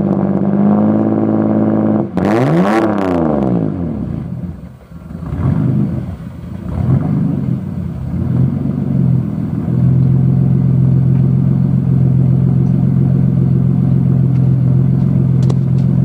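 1986 Ford Ranger engine running through a muffler-deleted homemade exhaust: stock catalytic converter into 2.5-inch pipe ending in a resonator tip, with a slight exhaust leak. It is revved once about two seconds in, pitch rising and falling, runs unevenly for a few seconds, then settles into a steady idle about ten seconds in.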